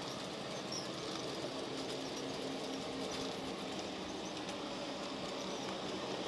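Model train running on a layout: the steady whir of its small electric motor with faint ticking of wheels over the track.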